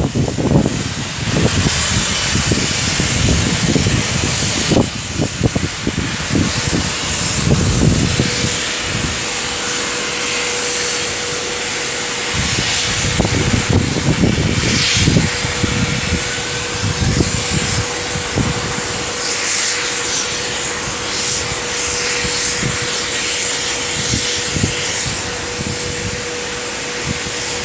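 Merchant Navy class steam locomotive 35018 pulling out of a station, with a loud steady hiss of steam and irregular low rumbling surges. A steady hum joins about eight seconds in.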